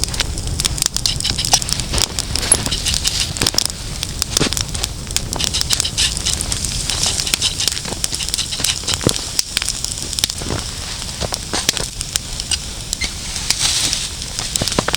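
Campfire of damp wood crackling, with irregular sharp pops over a steady low rush of the burning.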